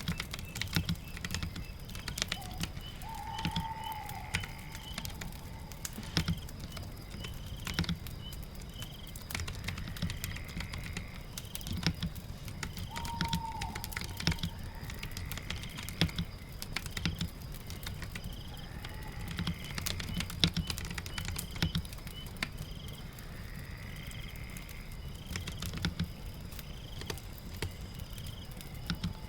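Typing on a keyboard, irregular key clicks, over a steady bed of rain and crackling fireplace ambience.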